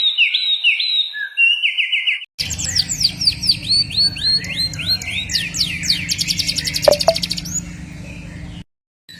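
Songbirds singing in spliced training recordings: quick repeated slurred whistles and fast trills. A little over two seconds in, a hard cut leads to a second recording with a steady low hum under the song, and the sound drops out briefly near the end.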